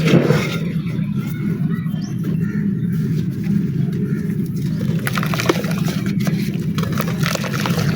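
Dry, crusty clay crumbling and crunching, a scatter of small crackles that thickens about five seconds in, over a steady low hum.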